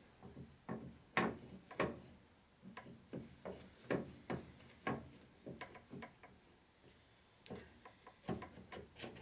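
Scattered light clicks and taps of a hone being handled and adjusted open to fit the hole, with a quieter stretch about two-thirds of the way through and more clicks near the end.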